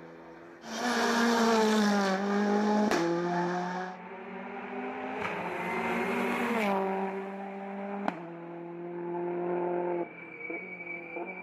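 Hill-climb race car engine at high revs passing at speed, its pitch dropping in steps, with sharp cracks about three and eight seconds in. The sound falls away near the end.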